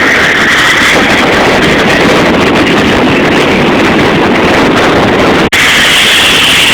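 Motorboat running at speed, a loud steady rush of engine and water with wind buffeting the microphone; the sound drops out for an instant about five and a half seconds in.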